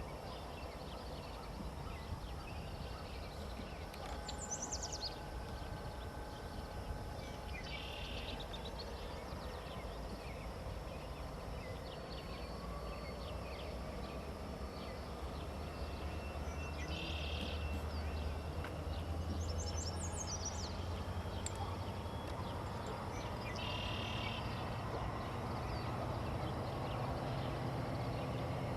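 Songbirds calling over a steady low background rumble: a short buzzy song phrase repeats three times, several seconds apart, and thin high descending notes come twice. The low rumble grows louder near the end.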